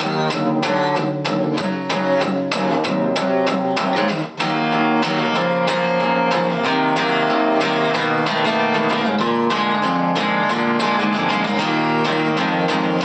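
Instrumental break of a song: guitar picked and strummed, with no singing, dipping briefly about four seconds in.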